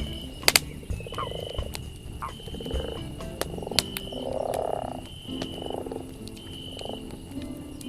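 Frogs croaking in rough, pulsed calls of about half a second, one after another roughly every second. Over them a campfire crackles, with two sharp pops about half a second in and scattered smaller ticks, and a thin high tone repeats in short stretches.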